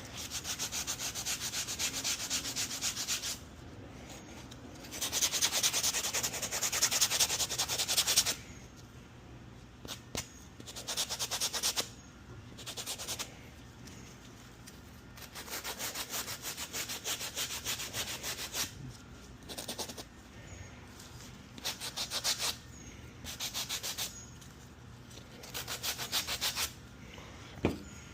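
Hand sanding with a sanding block: fast back-and-forth rasping strokes in repeated bouts of one to a few seconds, with short pauses between, as a part is rubbed down before painting.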